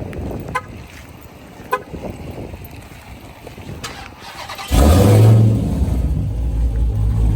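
2023 Dodge Charger Hellcat's supercharged 6.2-litre V8 starting through a mid-muffler-delete exhaust. About two-thirds of the way in it fires with a loud flare, then settles into a steady deep idle. Two short beeps come earlier, before the start.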